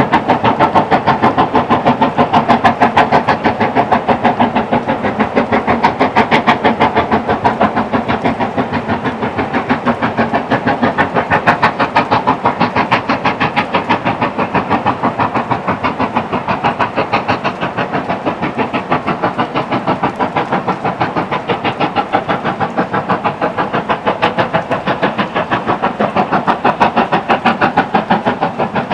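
Steam locomotive working hard, its exhaust beating in a fast, even run of chuffs. The beats ease a little midway and build again near the end.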